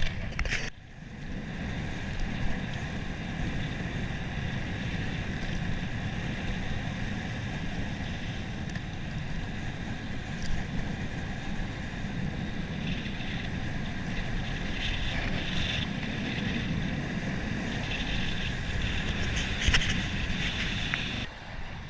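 Steady wind noise on the microphone of a bicycle riding along a road at speed, with tyre and road noise underneath.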